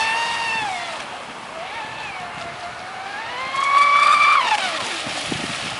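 Traxxas Spartan RC speedboat running on the water, its electric motor and propeller giving a high whine that swings up and down in pitch with the throttle. It climbs to its highest and loudest about four seconds in, then drops away quickly, over a hiss of water and wind.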